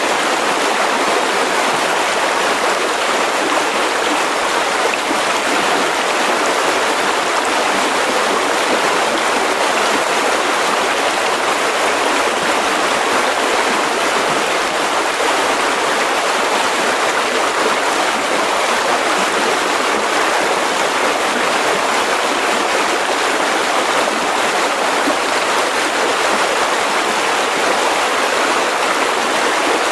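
Mountain river rushing over rocks: a steady, unbroken flow of water with most of its energy in the mid and upper range.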